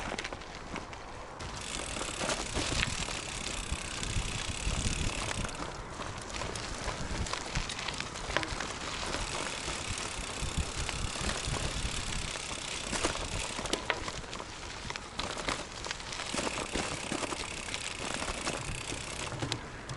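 Touring bicycle being ridden: tyres rolling, with frequent rattling clicks over a steady low rumble.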